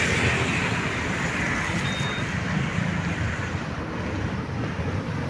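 Steady road-vehicle noise on the move in traffic: a low rumble under an even hiss that eases slightly after the first second.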